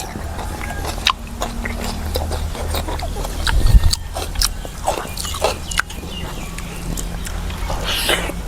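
Close-up eating sounds: a person chewing with wet mouth clicks and lip-smacks, over a steady low hum. A loud low thud comes about three and a half seconds in.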